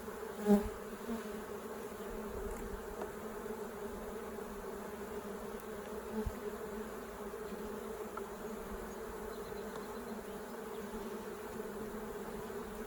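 Honeybees buzzing steadily around an open hive, with a single sharp knock about half a second in.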